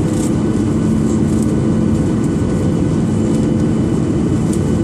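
Steady engine and airflow noise of a Boeing 737-800 in flight, with a low, even hum and no change in level.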